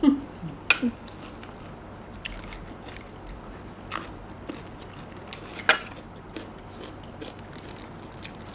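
A person chewing and biting food, with scattered short, sharp clicks; the loudest come about four and five and a half seconds in.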